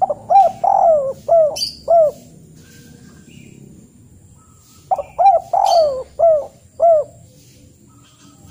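A bird calling: two phrases of about five quick, arching notes each, the second about five seconds after the first.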